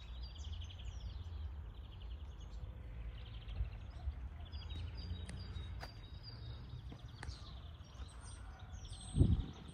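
Songbirds chirping and calling repeatedly in the trees over a steady low rumble, with one short thump about nine seconds in.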